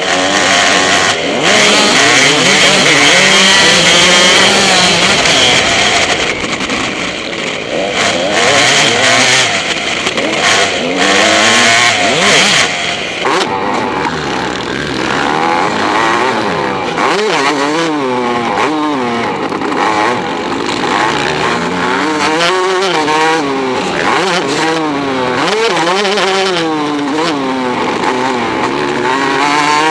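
Motocross dirt bike engine being ridden hard, its pitch climbing and dropping over and over as the throttle is opened and shut. It is rough and noisy at first, and the rising and falling revs stand out more clearly in the second half.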